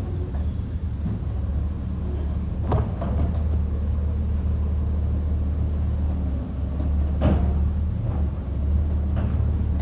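A garbage truck's diesel engine running with a steady low rumble, broken by a few metal clunks; the sharpest clunk comes about seven seconds in.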